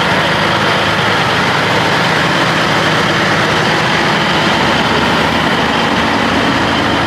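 Semi truck's diesel engine idling close by, a loud, steady running sound.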